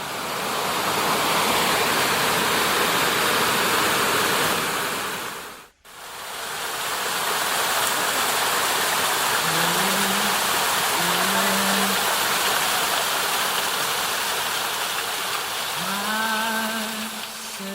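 Loud, steady rush of a mountain stream, cut off abruptly about six seconds in and then resuming. Near the end, low drawn-out chanted notes come in over the water.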